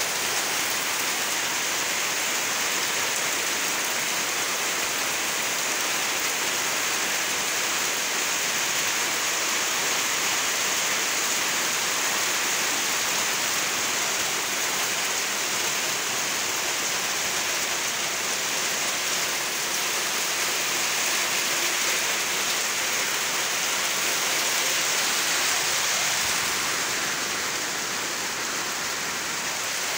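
Heavy rain falling steadily, a dense hiss of drops on foliage and splashing into puddled, flooded ground, with runoff streaming off a roof edge.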